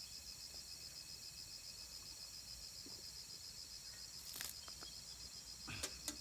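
Insect chirring steadily in rapid, even high-pitched pulses, with a few faint clicks or knocks about four seconds in and near the end.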